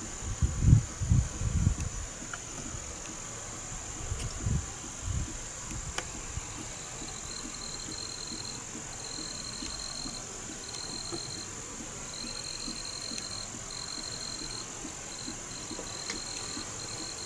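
Steady high-pitched chorus of calling insects. From about seven seconds in, a second, lower trill comes and goes in short repeated spells. A few low rumbles sound in the first few seconds.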